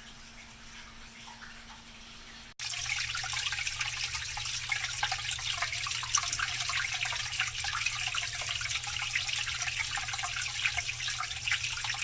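Water running and splashing steadily over a low, steady hum, starting abruptly about two and a half seconds in after a quiet stretch of faint hum.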